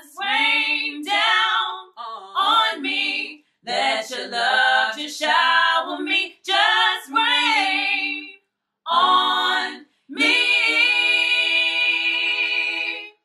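A cappella R&B vocal harmonies from one woman's overdubbed voices, singing together without instruments. Short phrases come in gaps, then a final held chord of about three seconds cuts off at the end.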